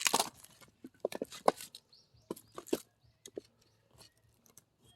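Firewood being split with an axe: the noisy tail of a split dies away at the start, then come scattered short wooden knocks and clicks, about half a dozen in the first three seconds and fainter after that, as the split pieces are knocked about and handled.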